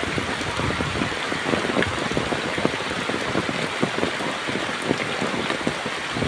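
Heavy, steady rain falling, a dense hiss of water with many individual drops striking close by.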